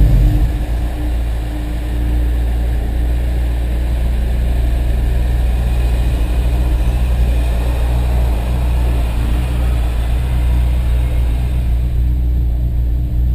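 Honda S2000's four-cylinder engine running steadily on a road test after new spark plugs were fitted to cure misfires.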